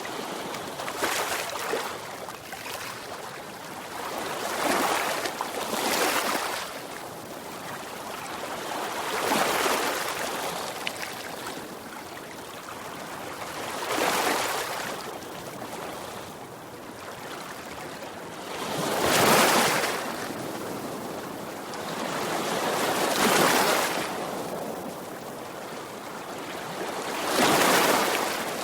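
Sea waves breaking and washing on a shore, swelling and falling back in a slow rhythm of about one surge every four to five seconds, the loudest two near the middle and the end.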